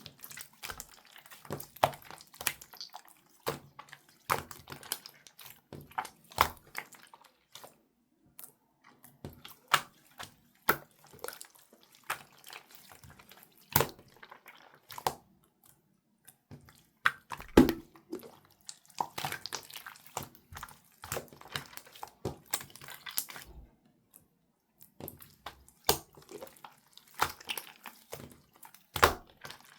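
Slime being worked by hand, giving irregular sticky pops, clicks and squishes, with a few louder pops and a denser run of crackling about two-thirds of the way through.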